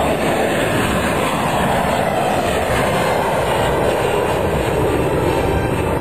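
Loud, steady jet engine noise from a passing airliner, with a faint slow shift in pitch.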